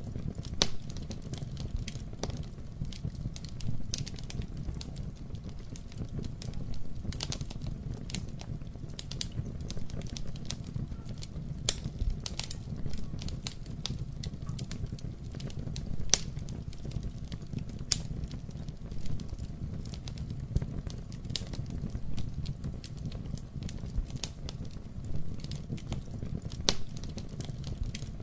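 Campfire burning: wood crackling and popping in irregular sharp snaps over a steady low rumble.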